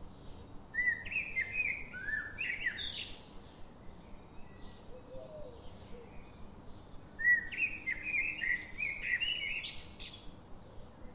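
Songbird singing: two phrases of quick, varied chirping notes, the first about a second in and the second about seven seconds in, over fainter chirps from other birds.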